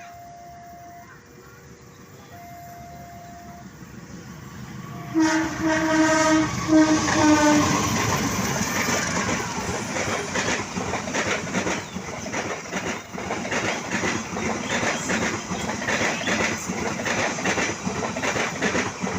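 Train horn sounding three blasts about five seconds in, the last dipping slightly in pitch as the train draws level. The train then passes close by, its wheels clattering rhythmically over the rail joints.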